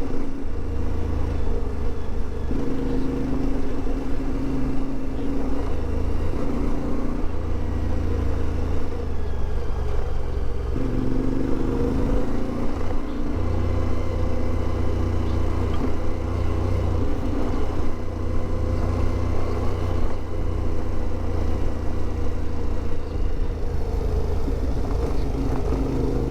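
CFMoto 450MT parallel-twin adventure motorcycle engine running under way, its note stepping up and down several times with throttle and gear changes.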